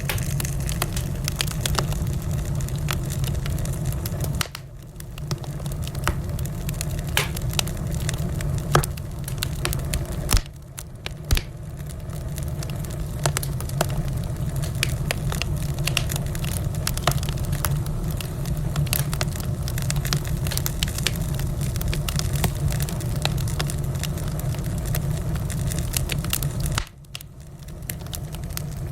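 Wood fire crackling in a fireplace, with frequent sharp pops and snaps over a steady low rumble. The sound briefly drops quieter three times.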